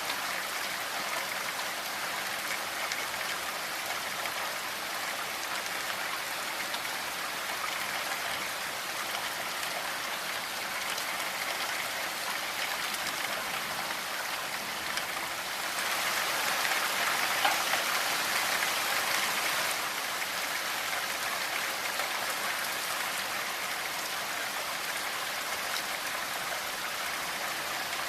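Steady rainfall, an even hiss of falling drops that swells a little louder for a few seconds past the middle.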